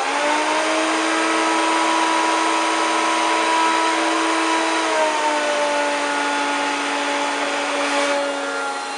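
1993 Hoover Turbopower 2 1000 vacuum cleaner running with a steady motor whine. The whine drops slightly in pitch about five seconds in, and the sound gets a little quieter near the end.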